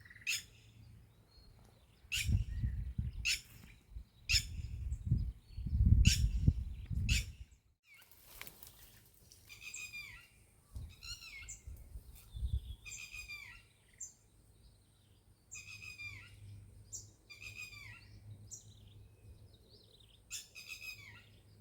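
A bird calling over and over, in short phrases of high, falling chirps about every second, through the second half. Before that, a loud low rumble with sharp clicks about once a second.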